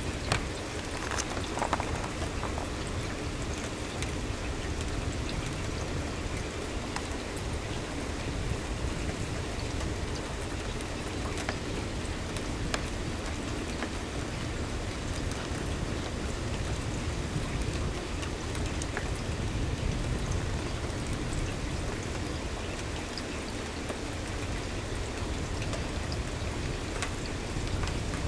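Steady rain falling on an evergreen tree and lawn: an even hiss with scattered sharp ticks of nearby drops, a few stronger ones in the first couple of seconds.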